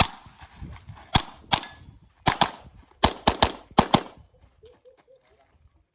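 Handgun shots fired in rapid succession during a practical shooting stage: about ten sharp reports in the first four seconds, mostly in quick pairs, then they stop.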